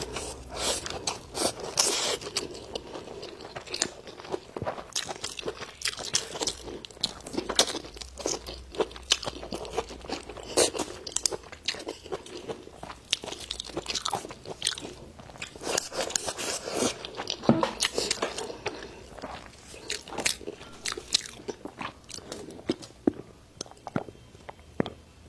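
A person chewing and biting food close to the microphone, with many irregular, sharp crunches.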